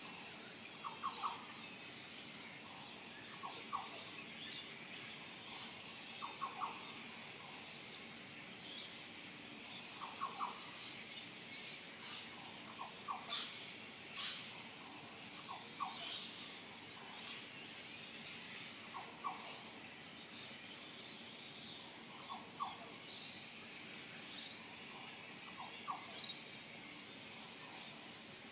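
Dawn chorus of several birds in tropical North Queensland. One bird repeats a short low call of two or three quick notes every few seconds, while others chirp and whistle at higher pitch, with two louder sharp calls about halfway through.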